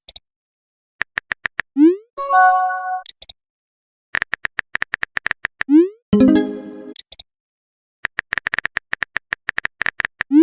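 Electronic chat-app sound effects repeating about every four seconds: a run of rapid typing clicks, a short rising swoop, then a bright chime like a message alert. The cycle plays twice, and a third starts near the end.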